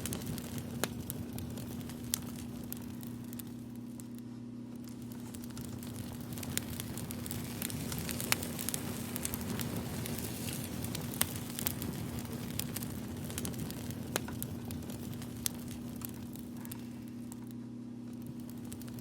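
Crackling fire, a campfire sound with scattered irregular pops and snaps over a soft, even hiss, and a low steady hum underneath.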